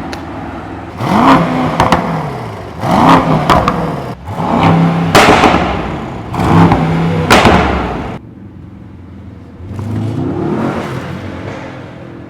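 The Mercedes-AMG S63 E Performance's twin-turbo 4.0-litre V8 revving hard in a run of short bursts, each climbing in pitch and cutting off sharply. After about eight seconds it drops to quieter running with one milder rise.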